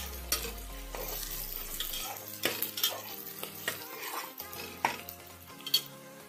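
Onions, green chillies and curry leaves sizzling as they fry in oil in an aluminium pressure cooker, stirred with a metal spatula that scrapes and knocks against the pot with sharp, irregular clicks.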